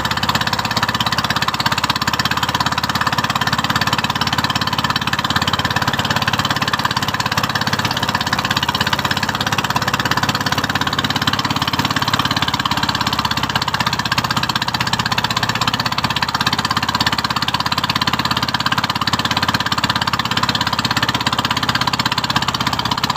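Small boat's engine running steadily at a constant speed.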